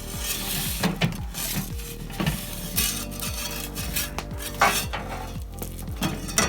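Metal scraping and clinking in a few short strokes, over background music with a steady beat.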